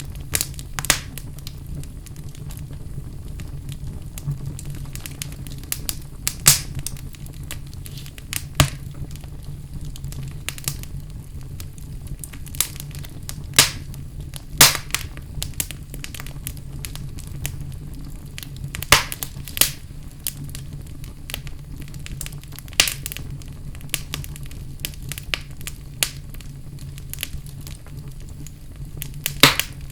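Fire burning in a fireplace: irregular sharp crackles and pops, a dozen or so loud ones, over a steady low rumble.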